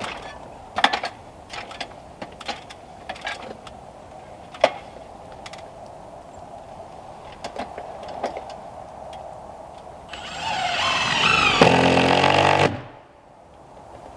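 Scattered sharp knocks and taps, then about ten seconds in a small power-tool motor spins up, rising in pitch, and cuts off abruptly about two and a half seconds later.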